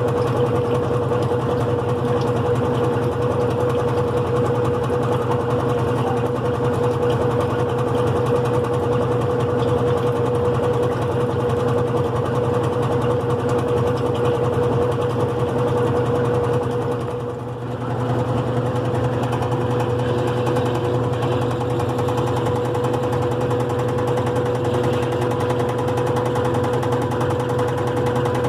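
GE Profile top-load washing machine running on its single-speed motor, a steady mechanical hum with a constant tone. The hum dips briefly about two-thirds of the way through, then carries on.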